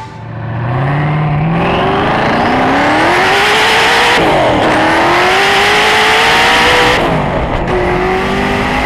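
Car engine accelerating hard through the gears: the pitch climbs steadily, drops sharply at a shift about four seconds in, climbs again, then falls back near the end.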